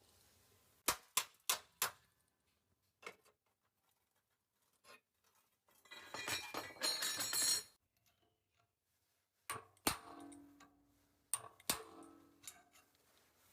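Metal clicking and clinking of a screwdriver and gas-stove parts as the screw holding an old thermocouple probe is undone. A stretch of rattling and scraping comes about six seconds in, and more clicks and knocks follow near the end. The screw is rusted and tight.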